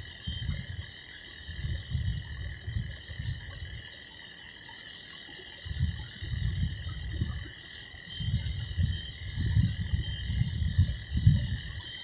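Frogs croaking: low, grunting calls in clusters a second or two long, with a short lull partway through, over a steady high-pitched chorus.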